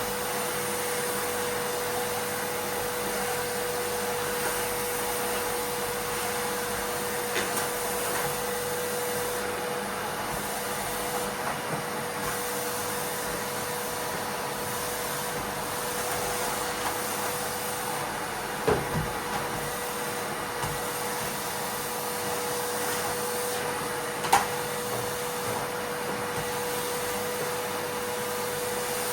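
Miele vacuum cleaner running steadily with a constant whine, and a few sharp clicks and knocks as small Lego pieces are sucked up, the loudest late on.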